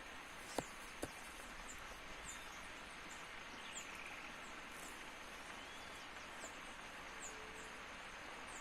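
Steady outdoor ambient hiss with short, high chirps recurring about once a second, and two sharp pops about half a second apart within the first second or so.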